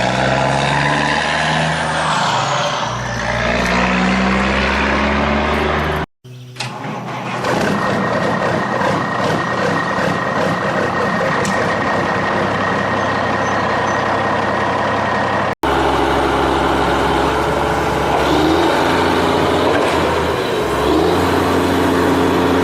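Heavy truck engine sounds running and revving, in three segments separated by abrupt cuts about six seconds and fifteen and a half seconds in.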